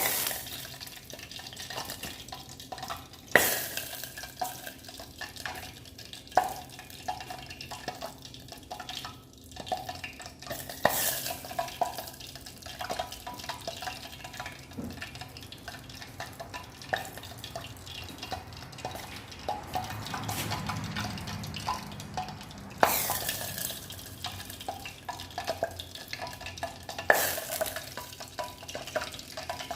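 Diesel fuel burning slowly after being set alight, sizzling and crackling like it is boiling, with several sharp pops scattered through.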